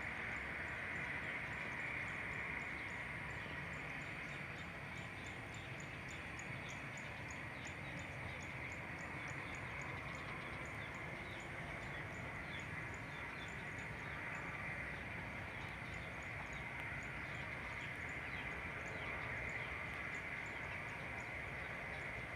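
Steady outdoor airfield ambience: a low rumble and hiss, with small birds chirping rapidly and continuously in short, high, falling notes.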